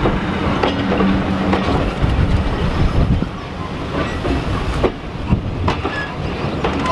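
Railway passenger coaches rolling past, with a steady low rumble and repeated clicks of the wheels over the rail joints.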